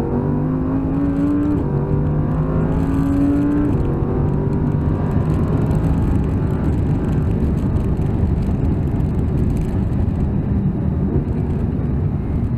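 Audi R8's 5.2-litre V10 heard from inside the cabin, pulling hard with rising pitch, an upshift about a second and a half in, then climbing again. About four seconds in the driver lifts off, and the engine note gives way to a steady rush of road and wind noise as the car slows.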